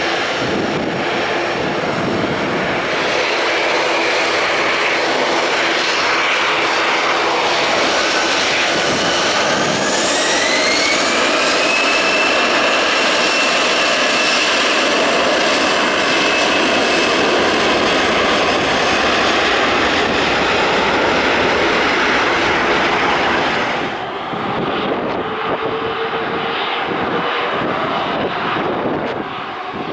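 Airbus A321's CFM56 turbofan jet engines running loud and steady on departure. About ten seconds in, a whine rises in pitch and then holds as the engines spool up. Near the end the sound cuts abruptly to a duller jet engine noise with less hiss, from another airliner.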